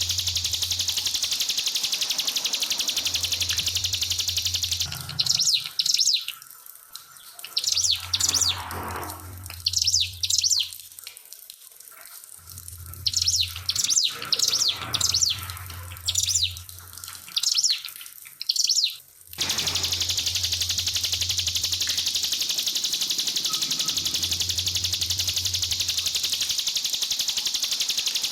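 Trickling water runs steadily at first. About five seconds in it gives way to a ciblek pinus (a prinia) singing rapid clusters of sharp, high notes in bursts for about fourteen seconds. The trickling water then returns.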